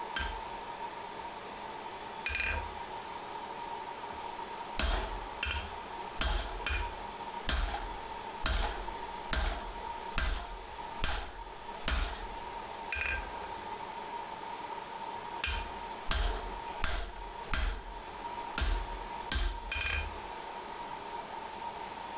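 Blacksmith's hammer striking a cutting chisel into hot steel on the anvil, cutting in the split for the tongs. Sharp blows come about two a second in runs with short pauses, some ringing briefly, over a steady high hum.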